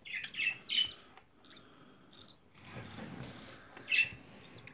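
Budgerigar chicks giving short, high squeaky chirps, about a dozen in a loose string, as they are handled for leg ringing.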